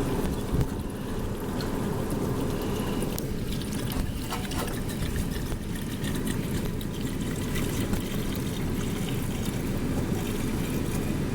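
Water being poured from a bottle into the 2003 Cadillac Escalade's cooling system, trickling over a steady low rumble of wind on the microphone.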